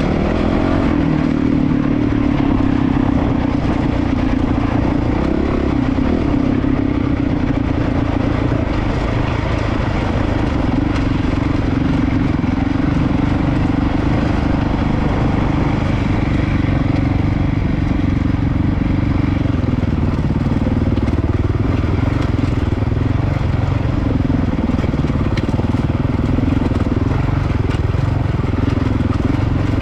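Honda CRF450RL's single-cylinder four-stroke engine running at fairly steady revs while riding down a rocky trail, with rocks crunching and clattering under the tyres.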